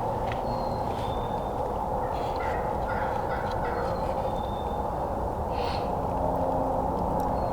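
Turkey calling: a short run of stepped notes from about two to three and a half seconds in, over a steady background hiss.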